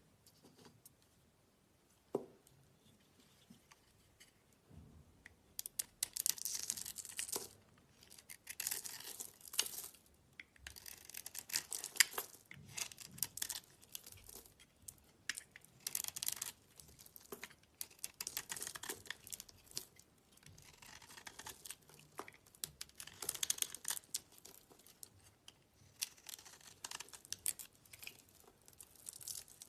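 Slime being squeezed and worked by hand, giving repeated bursts of crackling and popping every second or two, starting about five seconds in. A single sharp click about two seconds in.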